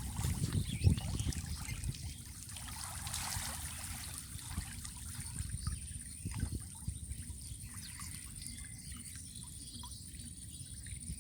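River water trickling and splashing, with small splashes and drips over a constant low rumble and a faint steady high-pitched tone.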